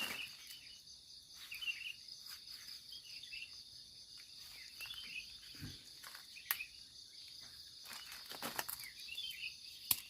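Steady high-pitched insect chorus of crickets or cicadas, with short chirps recurring every second or two and a few sharp clicks.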